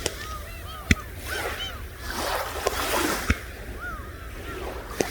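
Seagulls giving short, repeated arched cries over surf washing on the shore, with a low rumble and a few sharp clicks.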